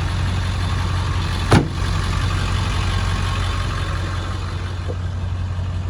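7.3-litre Power Stroke turbodiesel V8 of a 2001 Ford F-250 idling steadily, with a single sharp knock about one and a half seconds in.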